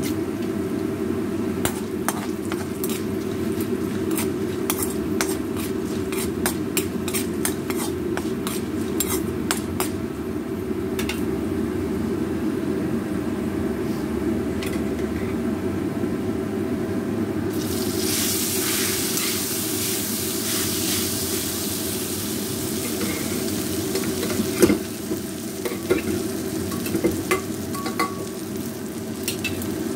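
Peanuts, chana dal and curry leaves frying in hot oil in a pan, crackling and popping. About halfway a louder sizzling hiss starts suddenly. Near the end a spatula knocks and scrapes against the pan as rice is stirred in, over a steady low hum.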